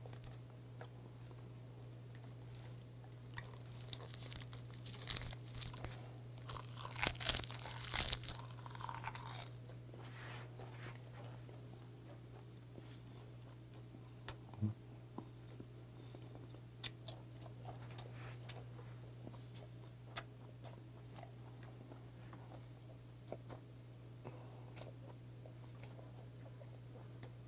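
Close-miked chewing of a mouthful of semi-dried saury (gwamegi) wrapped in laver: a run of crunchy, crackling chews about four to nine seconds in, then softer, scattered chewing sounds, over a steady low hum.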